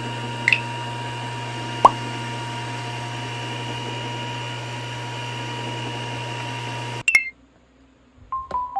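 A steady mechanical hum, low and even with faint steady tones above it. About half a second in there is a short high chirp, and just before two seconds a sharp click. The hum cuts off abruptly about seven seconds in.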